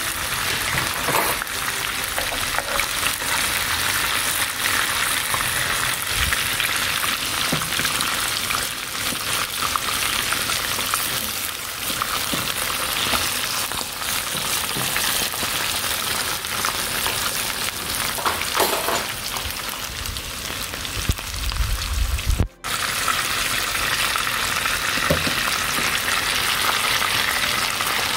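Chopped onion and spring onion frying in hot oil in a pan: a steady sizzle with scattered crackling spits. The sound cuts out for a moment a little after two-thirds of the way through, then the sizzle carries on.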